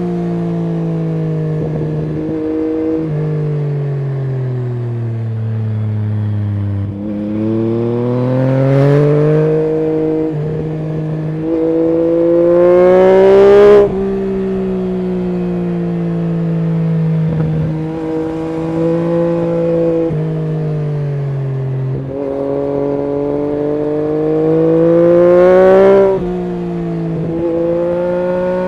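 Yamaha MT-09 SP's 890 cc inline three-cylinder engine through an Akrapovic full exhaust system, ridden hard. The engine note falls while slowing, then climbs through the gears with short breaks at the upshifts, loudest and cutting off sharply about 14 s in and again near 26 s. Between the two climbs it drops in steps as it is shifted down.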